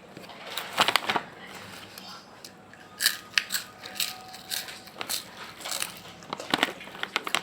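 Krisbee crisp snack being bitten and chewed close to the microphone: sharp crackling crunches in several groups, the first about a second in.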